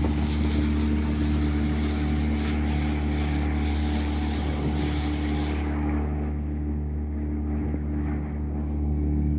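9.9 hp Mercury outboard motor running steadily with a boat underway, with a rush of wind and water that dies away about halfway through while the engine tone holds.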